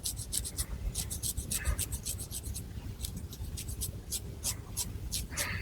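Long fingernails scratching through hair on a scalp, in quick crisp strokes several a second.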